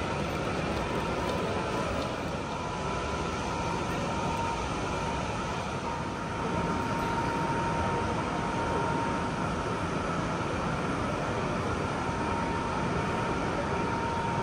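Steady drone inside a Boeing 787-10 airliner cabin, engine and air-system noise with a thin steady whine running through it, growing a little louder about six seconds in.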